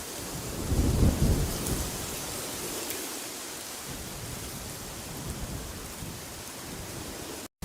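Wind-noise track: a steady rushing hiss with a low rumbling swell about a second in. Near the end the sound cuts out for a split second.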